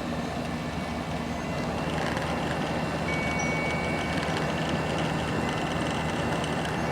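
Samsung 10,200 BTU window air conditioner running steadily, its rotary compressor humming under the fan's rush of air. A faint high tone joins the hum about two seconds in.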